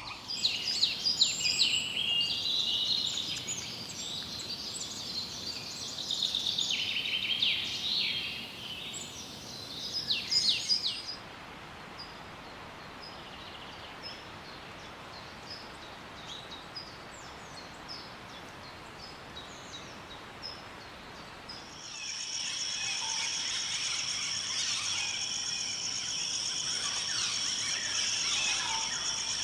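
Wild birds chirping and calling rapidly, many short sweeping notes, for roughly the first third. Then comes a quieter hissing stretch with only faint scattered chirps. About two-thirds of the way in, a steady high-pitched trill starts, with bird calls over it.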